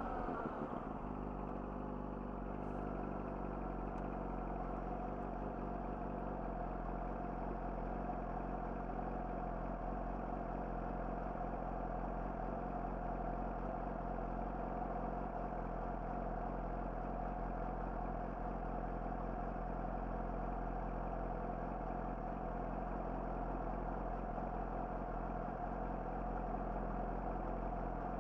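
Yamaha YZF-R6's inline-four engine idling steadily through an Akrapovic slip-on exhaust, its revs settling down to idle in the first second.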